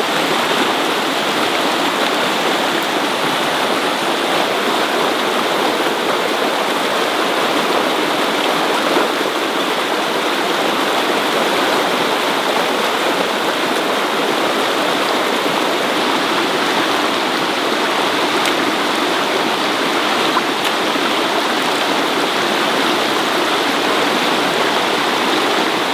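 Loud, steady rush of water, an even hiss-like noise that holds unchanged throughout.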